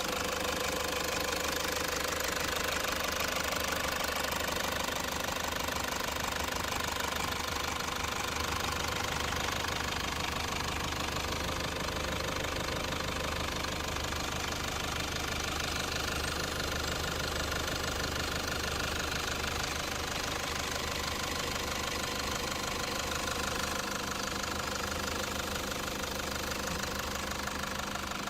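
Toyota Land Cruiser Prado's 3-litre inline-four turbodiesel running steadily at idle, with the usual diesel clatter.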